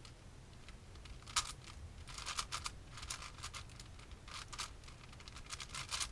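ShengShou 6x6 Rubik's-style cube being turned by hand: quick runs of irregular plastic clicks as its layers snap round.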